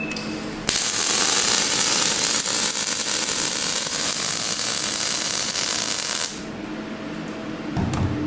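MIG welding arc at a robot-held welding torch fed by a MIG 350 welder: a steady hiss and crackle that starts about a second in and stops about six seconds in. A low thump comes near the end.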